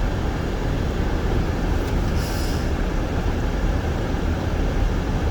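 Steady low road rumble and tyre noise of a car driving on a snow-covered, unplowed road, heard from inside the cabin, with a brief hiss about two seconds in.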